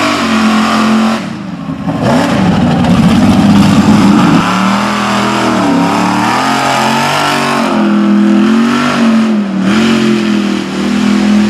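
Mega truck's engine revving hard, its pitch climbing and dropping several times, with a brief lull about a second in and a long high rev soon after.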